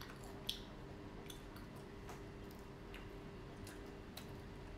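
Faint chewing and small wet mouth clicks from children eating mozzarella dippers, over a steady low hum; one sharper click about half a second in.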